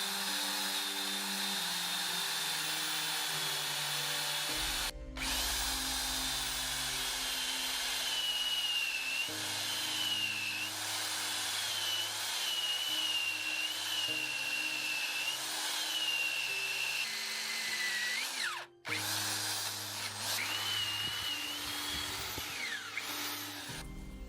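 Power drill boring holes into a log for suet plugs, its motor whine wavering under load. It stops briefly twice; before the second stop the whine sinks, and it rises again as the drill restarts.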